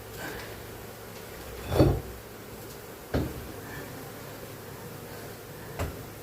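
Three knocks of handling: a dull thump about two seconds in (the loudest), a sharper knock about a second later and a lighter one near the end, over a steady low hum.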